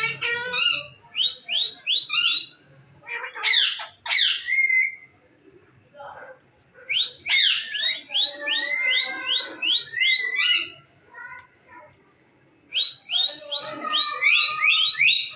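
Pet parrot calling in runs of quick rising whistled chirps, several a second, broken by loud sweeping squawks about four seconds in and again about seven seconds in, with short pauses between the runs.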